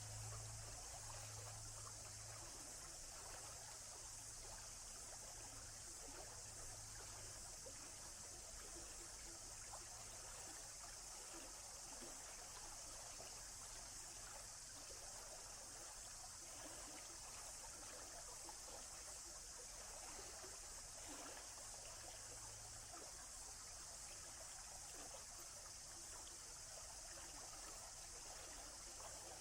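Faint, steady rush of flowing water with an even hiss, and a low hum underneath that fades out near the end.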